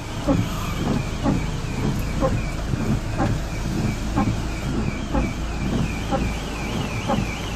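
Car alarm siren warbling up and down about three times a second, with a regular beat about once a second. Heavy wind rumble on the microphone runs beneath it.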